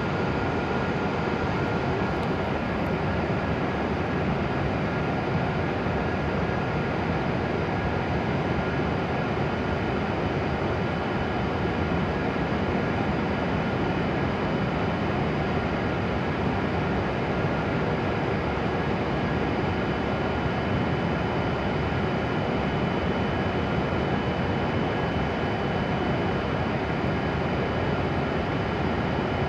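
E7-series shinkansen standing at the platform, its onboard blowers and air-conditioning units giving a steady whirring hum with a faint high-pitched whine.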